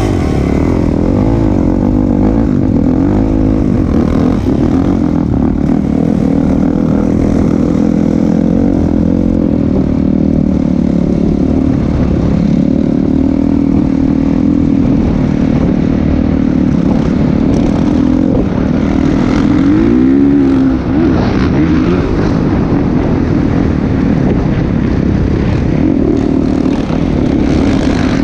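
Motocross bike engine running continuously, its pitch wandering up and down with the throttle, with a quick rise and fall in pitch about twenty seconds in.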